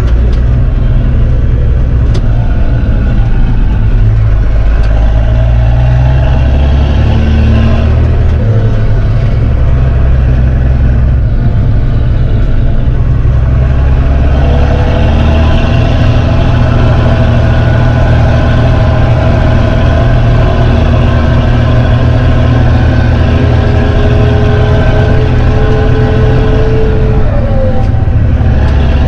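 Fendt 926 Favorit Vario tractor's six-cylinder diesel, fitted with an open exhaust pipe, running loud and deep as heard from inside the cab. The engine note holds steady, with its pitch shifting a little partway through.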